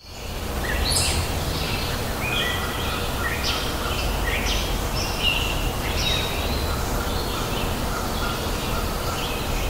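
Small birds chirping in short, high, repeated calls over a steady low rumble of outdoor ambience.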